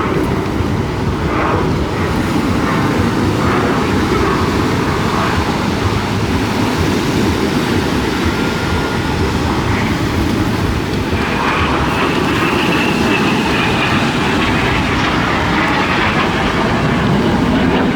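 Display jet aircraft flying overhead at an airshow: a loud, steady roar of jet engine noise that holds throughout.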